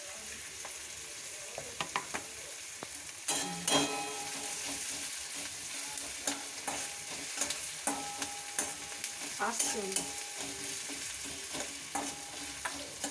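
Chopped onion sizzling in hot mustard oil in a kadai while a spatula stirs it, scraping and clicking against the pan, with a louder clatter about three seconds in. The onion is being fried until it turns reddish.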